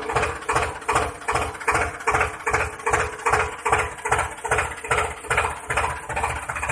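A small motor-driven mechanism running with a regular pulse about three times a second over a steady hum; the pulsing smooths out near the end.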